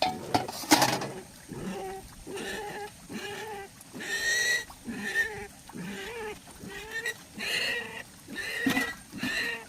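Repeated short animal calls, roughly one a second, after a brief sharp noise right at the start.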